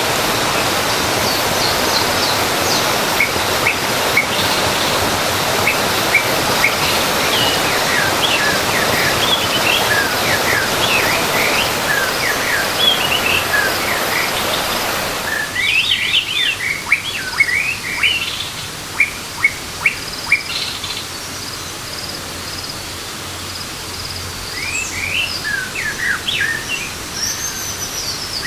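Rushing waterfall water with many birds chirping over it in short quick sweeps. About halfway through, the water sound cuts out suddenly, leaving only the birds chirping.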